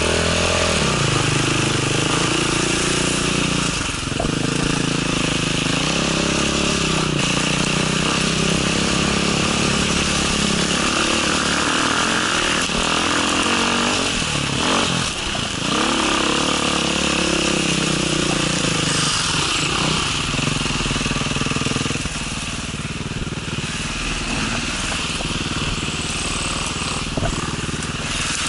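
Enduro motorcycle engine heard onboard while riding a dirt trail, its revs rising and falling over and over with the throttle and gear changes. After about twenty seconds it drops to a lower, steadier note as the bike slows.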